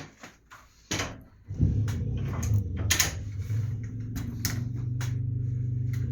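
Motorcycle engine started on the kickstarter: a sharp kick about a second in, then the engine catches about half a second later and keeps running steadily at idle, with a few clicks over it.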